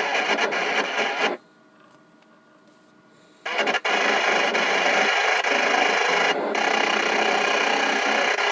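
Maycom EM27 CB radio's speaker giving loud static hiss that switches on and off abruptly: it cuts off about a second and a half in, then comes back about three and a half seconds in and runs on.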